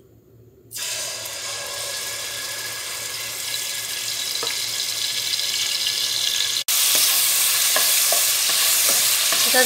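Garlic-ginger paste hitting hot oil in a pot and sizzling as it starts to fry, the sizzle starting suddenly about a second in. After a momentary drop-out about two-thirds of the way through, it sizzles louder while a spoon stirs the paste around the oil.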